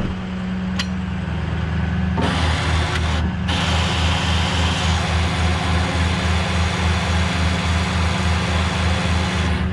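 Tow truck's engine running steadily while it powers the winch during a recovery pull, with a regular low throb about three times a second starting about two seconds in.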